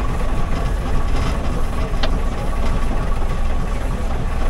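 Old bus engine running, heard from inside the cabin: a steady low rumble with a faint steady whine above it and a single sharp click about two seconds in.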